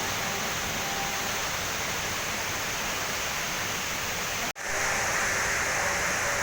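Steady rushing of the world's tallest indoor waterfall, a heavy fall of water crashing into its pool. The sound cuts out for an instant about four and a half seconds in, then comes back slightly louder and brighter.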